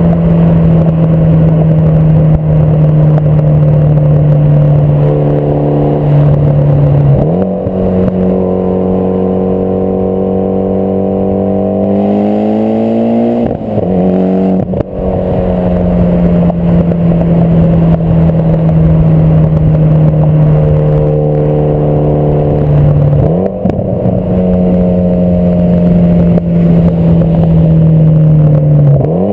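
Mitsubishi Lancer Evolution X's turbocharged four-cylinder running through a test pipe and AMS cat-back exhaust. The engine note holds steady or drifts slowly for several seconds at a time, with a sudden change in pitch about four times.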